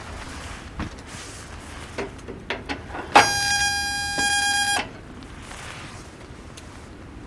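A steady electronic beep or buzzer tone, about a second and a half long and the loudest thing here, amid light clicks and rustles of handling.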